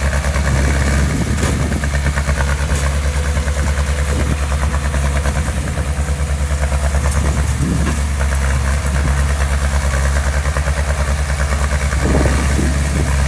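Heavy-equipment diesel engine running steadily close by, with a deep, even throb.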